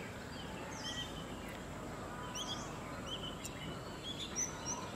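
Small birds chirping now and then, short chirps about once a second, over a steady outdoor background hiss.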